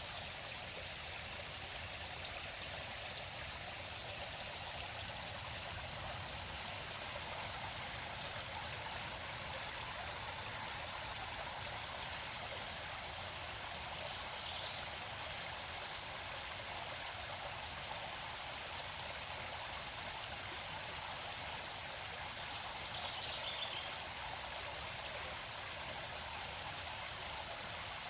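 A river flowing steadily, a constant rushing of water, with two brief high chirps, one about halfway through and one near the end.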